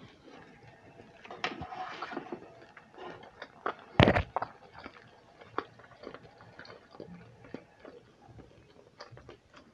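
Close-miked chewing of a mouthful of sushi roll: soft, irregular wet mouth clicks and smacks. About four seconds in there is one loud knock, as a hand touches the clip-on lapel microphone.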